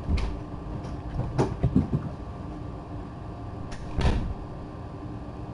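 A few knocks and bumps, like a door or cupboard being handled: one just after the start, a cluster about a second and a half in, and one about four seconds in, over a steady hum.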